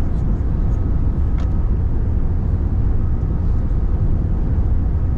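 Airbus A380 passenger cabin noise: a steady, loud low rumble of engines and airflow heard from a window seat, with a faint click about a second and a half in.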